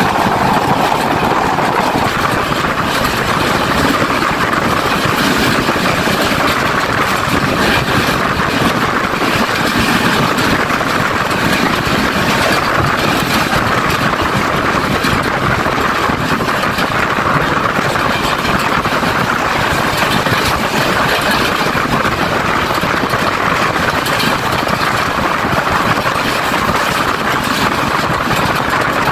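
Steady running noise of a moving passenger train, heard from an open carriage window: wheels rolling on the rails and air rushing past. A steady tone in the first two seconds stops about two seconds in.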